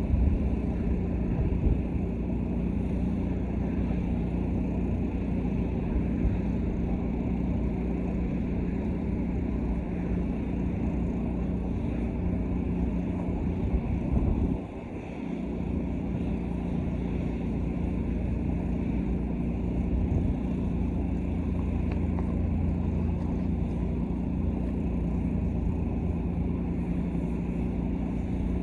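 Engine-driven pressure washer running at a steady pitch, with a brief dip about halfway through.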